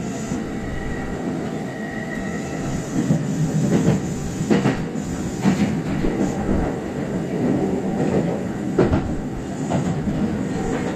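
Kintetsu express train noise heard from inside the lead car: a steady low rumble broken by a few sharp clicks and knocks.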